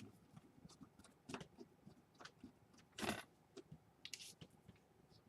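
Faint small clicks and scrapes of a screwdriver and laptop parts being handled during reassembly, with a louder short scrape about three seconds in.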